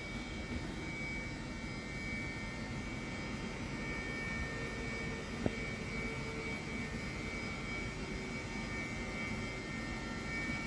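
Steady hum and whir of an electric passenger train standing at the platform, its on-board equipment running, with a faint high steady whine. A single short click about halfway through.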